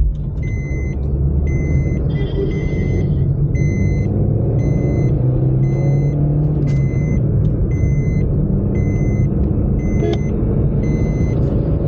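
A car's electronic warning chime beeps in a steady run of short beeps, a little more than one a second. Under it the car's engine and road rumble run on, rising in pitch for a while midway.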